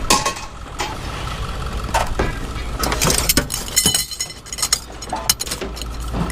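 Pieces of scrap metal clanking as they are tossed onto a scrap pile: a string of separate metal impacts, some ringing briefly, over a steady low rumble.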